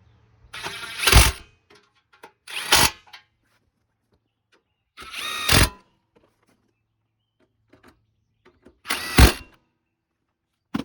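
Power driver running in four short bursts, each under a second, tightening 10 mm bolts on the front-end trim pieces.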